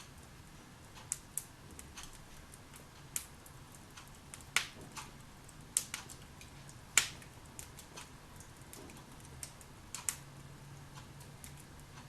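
Wood fire in a fireplace crackling, with scattered irregular pops and snaps, the sharpest about halfway through.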